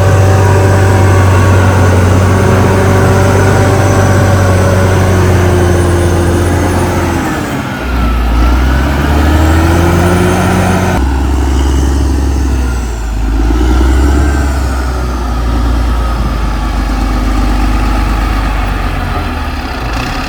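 Caterpillar D6R XL bulldozer's diesel engine running hard as it works. The engine pitch sags and then climbs back about eight to ten seconds in, and the sound changes abruptly about eleven seconds in.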